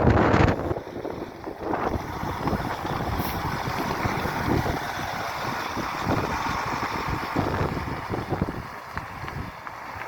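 Truck driving along an icy road that has been sanded, its engine and tyres a steady noise that fades near the end, the wheels gripping rather than spinning. Wind rumbles on the microphone in the first second.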